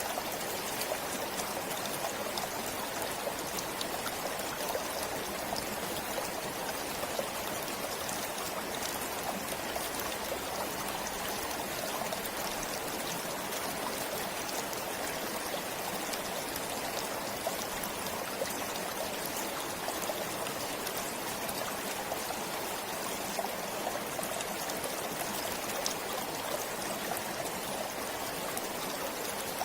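A forest stream flowing steadily, with a constant rush of water and fine trickling and splashing over it.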